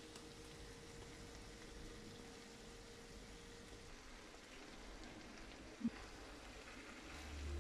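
Faint sizzle of vegetables frying in a pan on low heat as couscous is poured in, with a single short knock about six seconds in.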